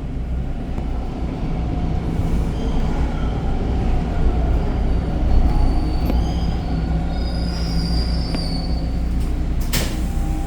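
TTC Line 2 subway train running, heard from inside the car: a steady low rumble of wheels on track, with thin high wheel squeal coming and going, and a sharp click near the end.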